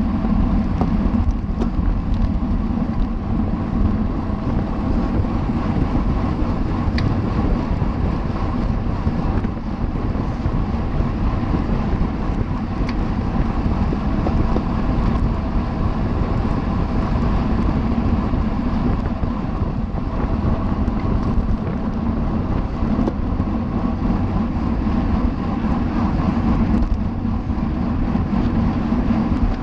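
Wind rushing over the microphone of a camera carried on a road bicycle while riding: a steady low rumble.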